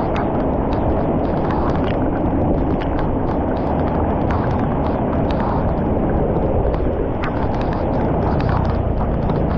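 Floodwater rushing steadily into a street culvert drain, with frequent short clicks through the steady rush.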